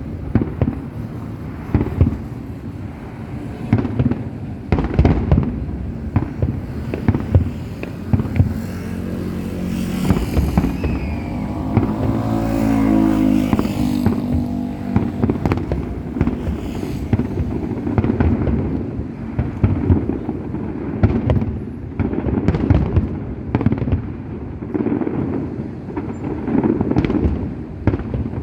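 Aerial fireworks going off in quick succession: a continuous string of bangs, pops and crackles, with a drawn-out pitched sound in the middle.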